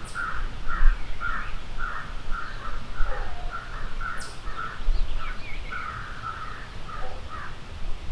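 Crows cawing in a long, rapid series of about two harsh calls a second, with a few short high chips from another bird.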